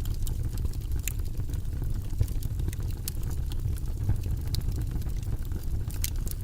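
Wood fire burning in a fireplace: a steady low rumble of flames under irregular sharp crackles and pops, with a slightly louder pop about two seconds in.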